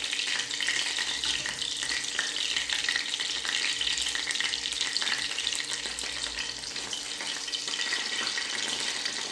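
Spicy boneless chicken wings frying in hot oil: a steady, dense crackling sizzle.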